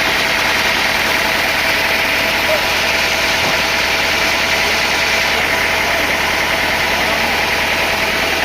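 Sawmill machinery running steadily, an engine-like drone with constant mechanical noise that does not change.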